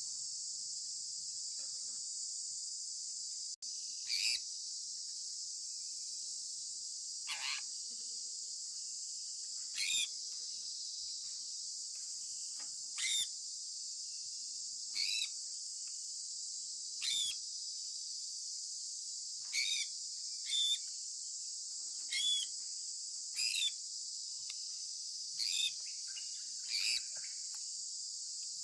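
Sun conure parrot giving short, shrill chirps that fall in pitch, about a dozen of them every one to three seconds, over a steady high-pitched hiss.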